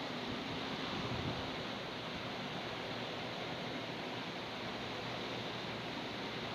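Steady airplane noise: an even rushing hiss with a faint low hum underneath, unchanging throughout.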